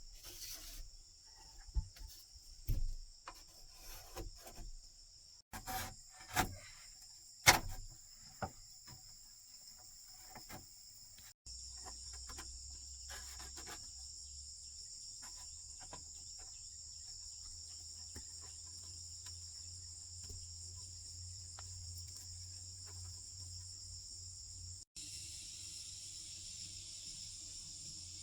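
Insects chirring steadily and high-pitched, with scattered sharp knocks and clicks over the first ten seconds or so; a low steady rumble joins underneath after about eleven seconds.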